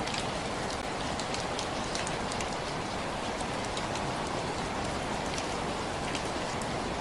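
Steady rainfall, an even hiss with scattered individual drops ticking sharply on a hard surface.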